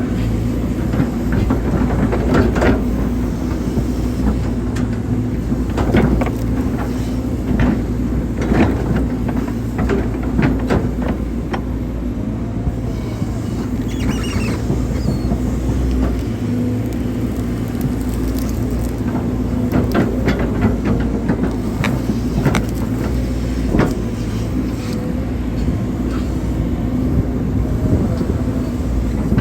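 Hydraulic excavator's diesel engine running steadily under load while digging a drainage ditch, with scattered knocks and clanks from the bucket and arm working the soil.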